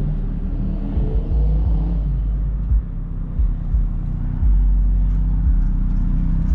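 A car engine idling, a steady low rumble that grows louder about two-thirds of the way through.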